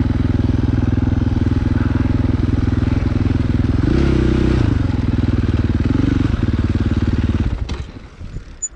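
Dirt bike engine running at low speed with two short blips of throttle, about four and six seconds in, then shut off near the end.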